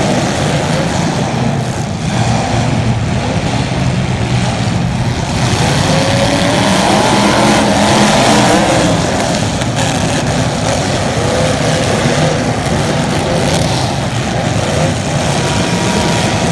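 Several small race engines running hard during a race, their pitch rising and falling as they accelerate and lift around the track, with overlapping engine notes throughout.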